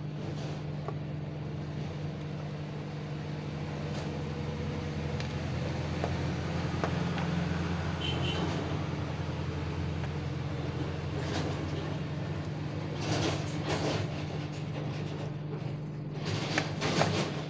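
A steady mechanical hum with a broad hiss, joined by a few light clicks and short clattering bursts about thirteen seconds in and again near the end.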